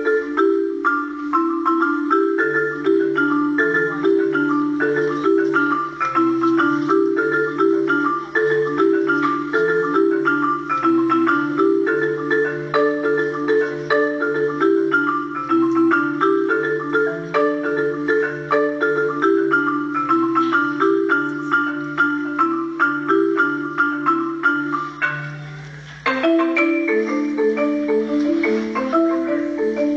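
Solo marimba played with mallets: rapid repeated notes in the middle and upper range over a low, repeating bass line that enters a couple of seconds in. Near the end the playing dies away briefly, then a new passage starts abruptly.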